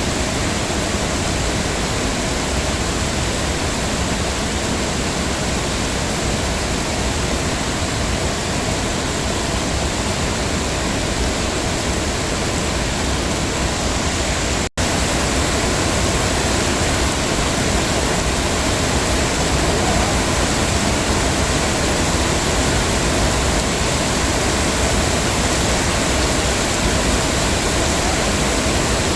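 Heavy rain falling steadily, an even wash of noise. About halfway through it cuts out for an instant, then carries on slightly louder.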